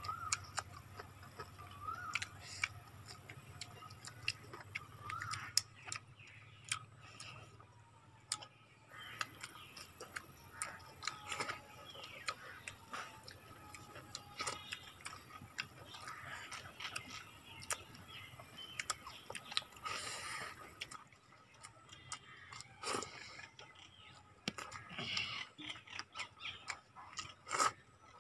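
Close-up eating sounds of rice and chicken being eaten by hand: scattered lip smacks and wet chewing clicks.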